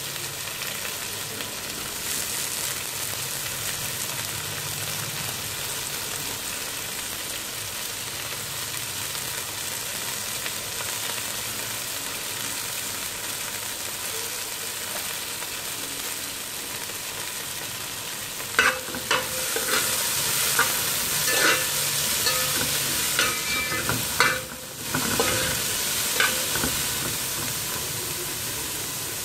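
Chopped capsicum, carrot and spring onions sizzling in hot oil in a metal pot, a steady hiss. About two-thirds of the way in, a cooking utensil clinks and scrapes against the pot for several seconds as the vegetables are stirred.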